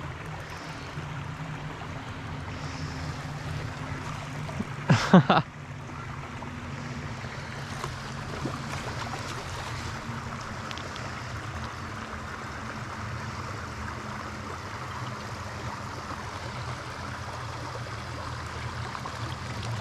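Creek water running steadily, with a steady low rumble on the microphone. A short, loud sound about five seconds in stands out above it.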